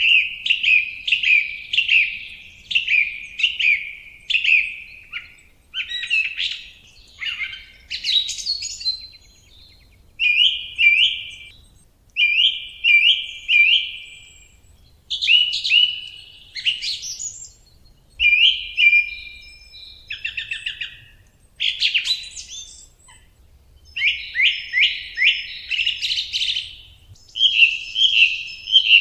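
Songbird singing in short phrases, each a quick series of similar chirping notes, with brief pauses between phrases.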